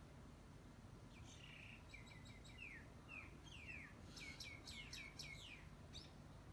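A bird singing faintly: short chirps and quick falling notes starting about a second in, then a faster run of notes before it stops near the end.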